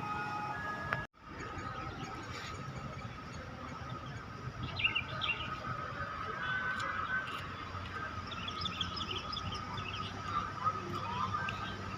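Small birds chirping in short clusters over a steady background hum, with the sound cutting out abruptly for a moment about a second in.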